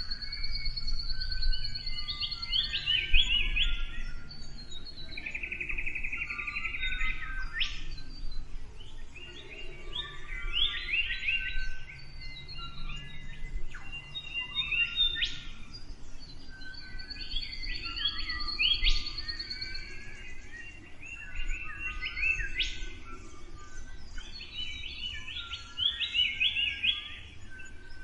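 Several songbirds singing together: overlapping chirps, whistled phrases and rapid buzzy trills, repeating throughout.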